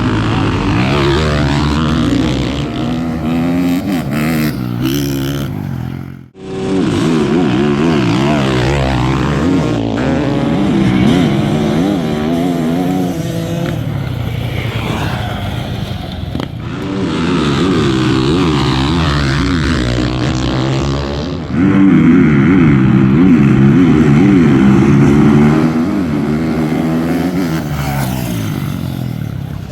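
Dirt bike engines revving and accelerating hard on drag runs, their pitch rising and falling through the gears. The sound breaks off abruptly about six seconds in and again around sixteen seconds in.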